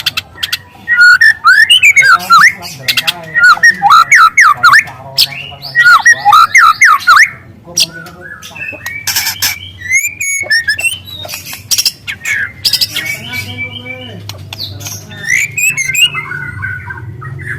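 Young white-rumped shama singing loud bursts of quick whistled sweeps mixed with sharp clicking notes, including long, loud canary-like phrases. A faint steady low hum sits underneath.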